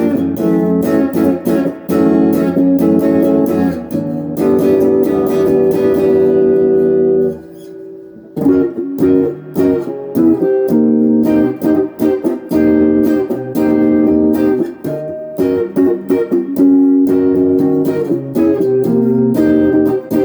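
Electric guitar on its neck pickup playing strummed chords through a Crate GX15R amp with a Golden Plexi overdrive pedal, the guitar's volume rolled to about 7 so the tone is just starting to break up. About 7 seconds in one chord is left to ring down before the playing starts again.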